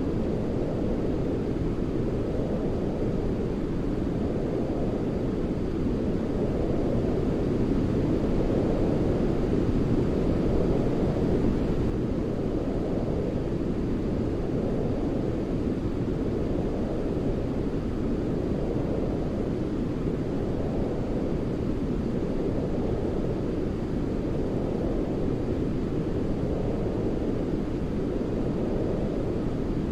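Steady, deep rushing noise from a baby-sleep white noise track, its weight in the low end like brown noise. It swells gently every couple of seconds and runs a little louder for a few seconds near the middle.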